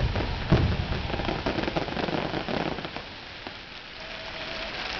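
Aerial fireworks: a bang about half a second in, then the dense crackling of the bursting stars, which thins and dies away after about three seconds.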